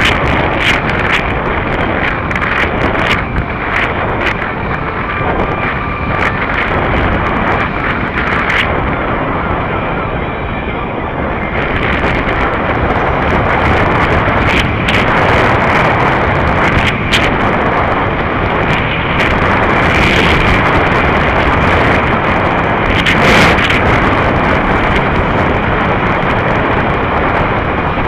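Heavy wind buffeting on the microphone of a rider moving at speed, over a steady vehicle running noise, with scattered crackles and knocks.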